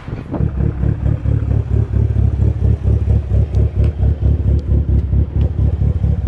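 A car's engine and exhaust running with a steady low rumble that pulses quickly and evenly.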